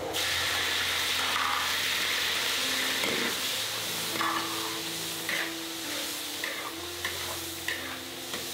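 Chillies and aromatics hitting hot oil in a large iron wok and bursting into a loud sizzle that starts suddenly and carries on as they are stir-fried. From about halfway through, the metal wok spatula scrapes and clicks against the wok every half second or so.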